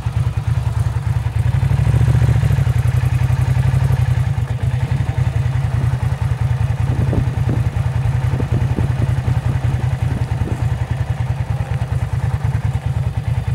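A Ducati motorcycle's L-twin engine idling, a loud, steady low beat with a fast, even pulse.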